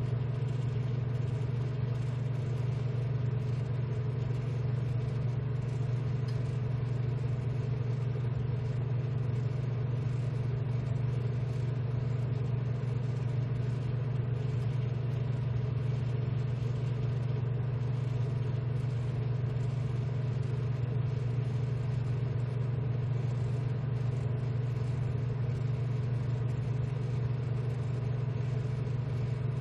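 Steady hum of a BGA rework station's blower fans running, with a deep drone and fainter higher tones that stay unchanged throughout.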